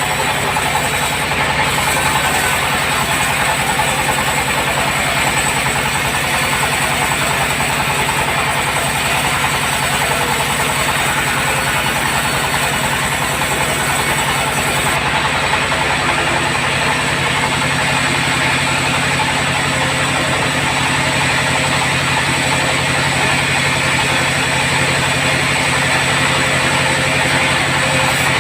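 Sawmill bandsaw running steadily: a low mechanical drone under a broad hiss. The high hiss thins out about halfway through.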